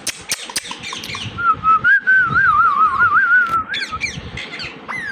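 Indian ringneck parakeet whistling one wavering, warbling note for about two seconds, after a run of sharp clicks, then a few short squeaky chirps near the end.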